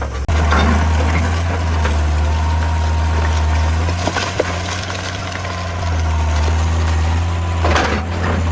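Excavator's diesel engine running steadily with a deep hum and a faint high whine, with a few sharp knocks about four seconds in.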